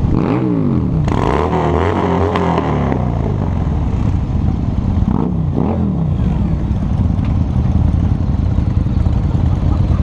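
Harley-Davidson V-twin motorcycle engine running under way, its pitch swinging down and up near the start and again about five seconds in as the throttle changes.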